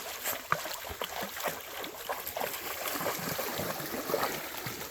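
Creek water trickling, with irregular rustles and small clicks of movement close by.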